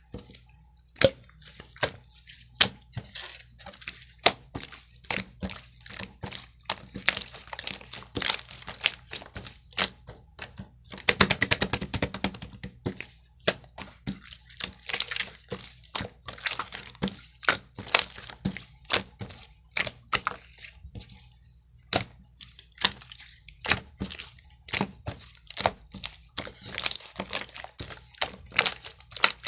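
Many short, irregular clicks, taps and crackles, with a denser burst of crackling about eleven seconds in.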